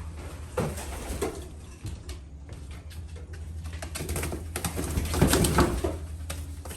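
Racing pigeons cooing, over a steady low hum and some rustling that grows louder about four seconds in.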